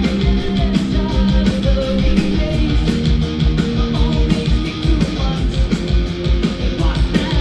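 Live rock band playing loud, with electric guitar over bass and a steady drum beat, recorded from the audience.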